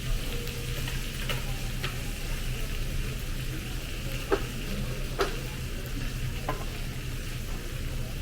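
Meat sizzling on a tabletop grill, a steady hiss over a low hum, with about five light clicks of utensils against the grill.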